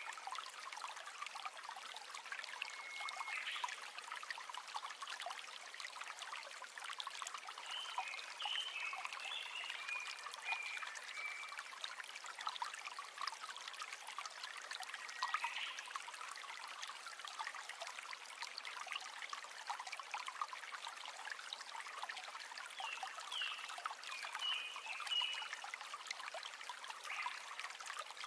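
River water flowing steadily with a trickling rush. Short high chirps from a small animal come through several times, in brief runs every few seconds.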